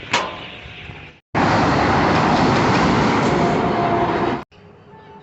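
Loud, steady train noise, a dense rumble and rattle of a train running on the rails, lasting about three seconds between abrupt cuts. A sharp click comes just before it.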